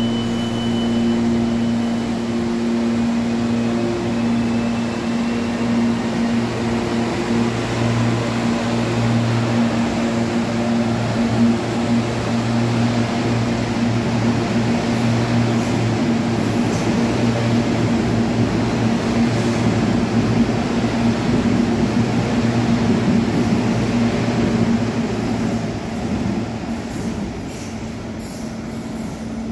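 Electric commuter train at a station platform: a steady electrical hum, with the rushing of wheels on rails building up in the middle and easing off near the end.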